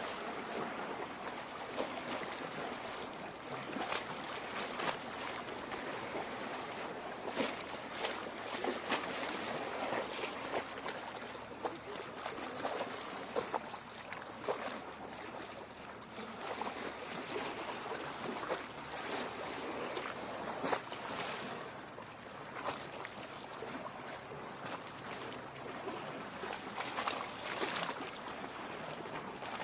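Small lake waves lapping against a rocky shore: a steady wash of water with frequent small splashes and gurgles.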